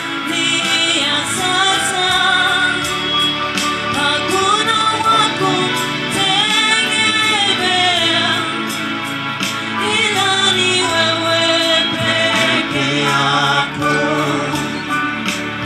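Gospel worship song: several voices singing over instrumental backing with a steady beat.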